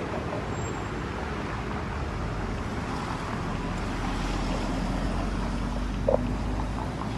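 Steady outdoor city ambience of road traffic running past, a continuous even rumble and hiss with no single event standing out.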